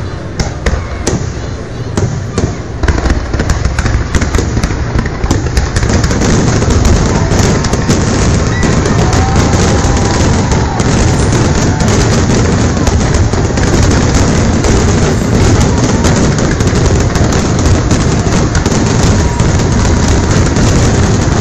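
Aerial fireworks shells exploding: separate cracks and booms for the first few seconds, then from about six seconds in a dense, continuous barrage of bursts.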